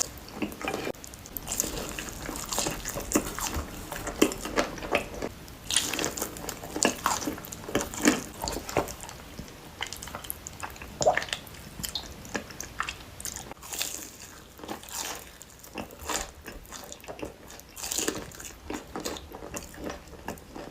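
Close-miked eating: a person biting and chewing crispy fried chicken, with irregular crunches several times a second.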